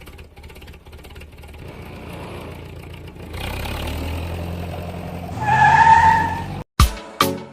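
Engine running and revving up, growing louder for several seconds, with a whine rising near the end, then cutting off suddenly.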